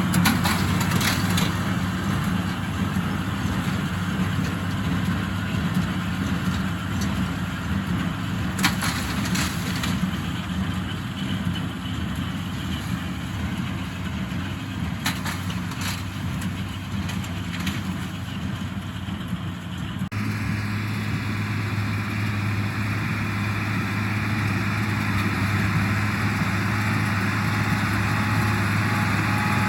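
Six-cylinder diesel engine of an International Harvester 886 tractor running steadily under load, pulling a working square baler, with a few short clattering knocks. About twenty seconds in the sound changes abruptly to a stronger, steadier engine hum.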